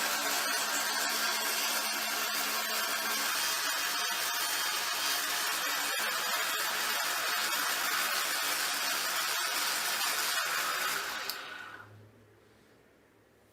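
Small electric power tool running steadily with a dense rasping, ticking noise as it works on the metal, then switched off about eleven seconds in and winding down within a second.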